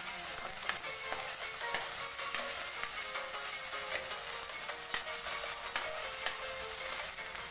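Chopped onion and corned beef sizzling in hot oil in a wok, stirred with a spatula that scrapes and taps against the pan in frequent sharp clicks. Music plays in the background.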